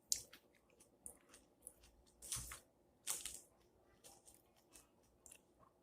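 Close-up chewing of a lettuce chicken salad: a scatter of short, faint, crisp crunches, with a few sharper ones near the start and about two and three seconds in.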